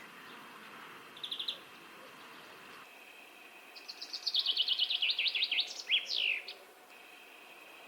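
Common chaffinch singing one full song: a run of rapid notes falling in pitch, ending in a quick flourish. Earlier, a short trill from a European greenfinch.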